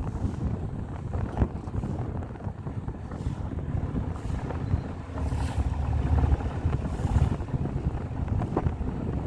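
Wind buffeting the microphone aboard a moving tour boat, over a low rumble from the boat under way. The gusts swell louder past the middle.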